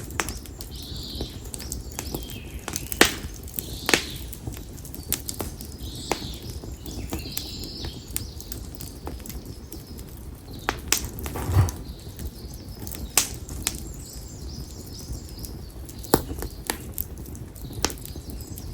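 Konara oak firewood burning in an open campfire, crackling with sharp, irregular pops, including one deeper, heavier pop a little past halfway. Birds chirp faintly in the background.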